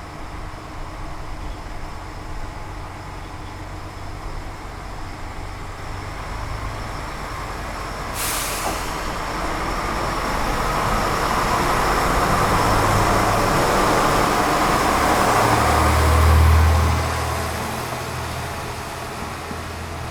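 JR Shikoku 1200-series single-car diesel railcar pulling out of a station. Its engine idles, its air brakes release with a sharp hiss about eight seconds in, and then the engine opens up with a deep rumble that peaks late in the clip and begins to fade as the railcar moves off.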